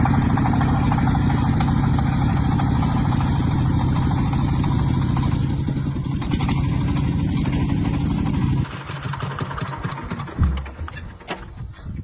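Tractor engine running steadily, then shut off suddenly about two-thirds of the way through. A few knocks and a single loud thump follow as it falls quiet.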